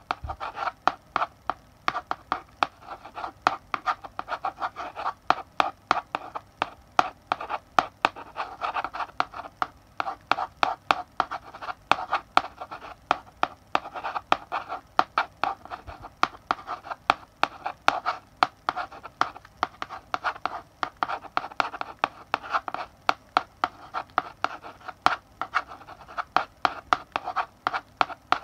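Chalk writing on a blackboard: a steady stream of sharp taps and short scratching strokes as letters are written.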